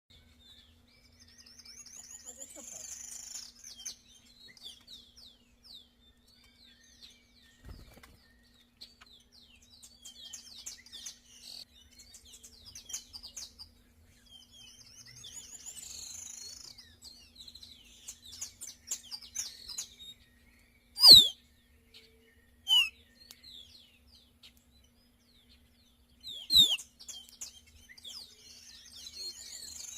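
Birds chirping and chattering in quick runs of high notes, with a few loud, sharp calls that slide downward in the second half.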